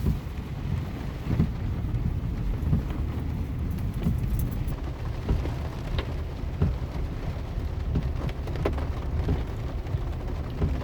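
Heavy rain hitting a moving car, heard from inside the cabin: a steady low road-and-engine rumble under a wash of rain noise, with scattered sharp taps of drops striking the body and glass.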